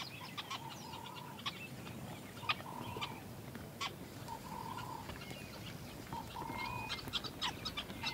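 Birds calling in the background: scattered short, high chirps, with a short mid-pitched note repeating every second or two.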